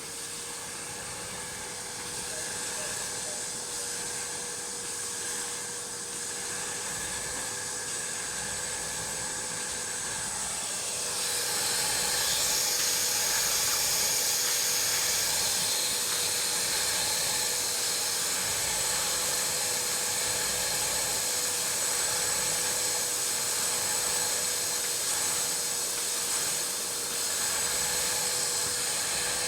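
Kärcher WD3 Premium wet-and-dry vacuum cleaner running steadily, a motor whine under loud hissing suction. About eleven seconds in, the suction grows louder and hissier.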